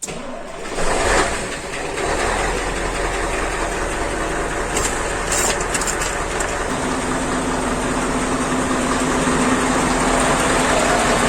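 Scania 144 truck's V8 diesel engine running: a surge about a second in, then a steady idle with a low hum, joined by a steady whine a little past halfway.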